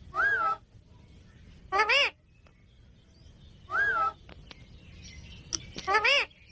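A parrot calling: four short, loud pitched calls about two seconds apart, two of them with a rising-and-falling pitch and two rising in pitch.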